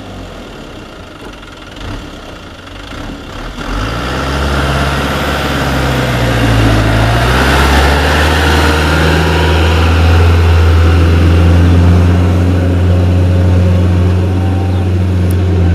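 Diesel engine of a fully loaded truck working up a steep grade. It grows louder from about four seconds in, dips briefly in pitch, then runs steady and loud.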